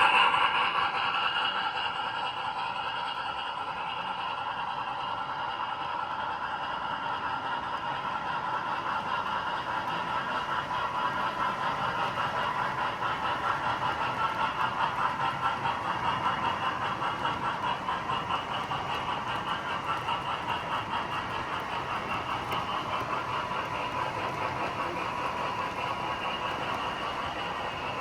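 Model train running on the track, a steady mechanical running noise with a fast ripple to it. It is loudest at the start and settles within about two seconds.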